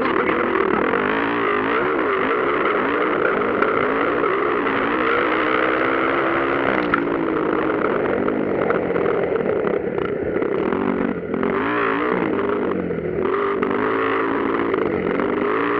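Several motocross bikes racing, their engines revving up and down over and over as the pitch rises and falls.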